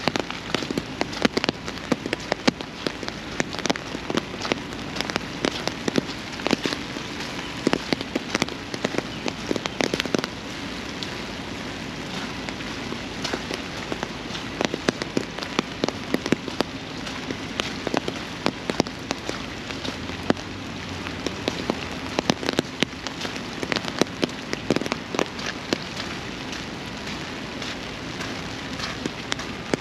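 Steady rain, with many sharp, irregular drop hits close by.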